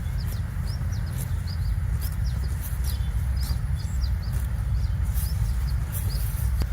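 Small birds chirping, many short quick chirps in irregular runs, over a steady low rumble.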